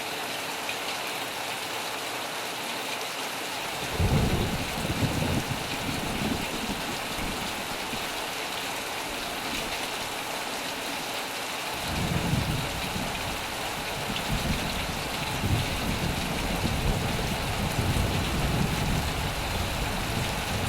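Heavy rain falling steadily, with thunder twice: a short low rumble about four seconds in, and a longer one from about twelve seconds in that keeps rolling on.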